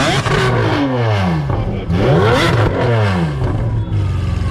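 Car engines being revved hard at a meet: several overlapping rev blips whose pitch climbs and falls a few times a second. Near the end one engine settles into a steady, loud drone.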